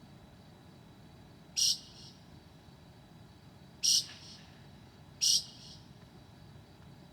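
Northern mockingbird singing at night: three short, loud, high notes, the last two closer together, over a faint steady high hum.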